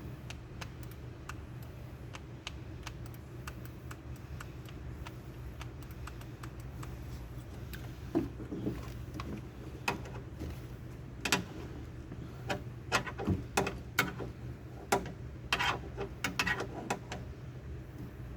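Scattered light clicks and small metallic knocks, sparse at first and louder and busier in the second half, over a steady low hum: hands and tools working at a pickup's door during a check of its power window.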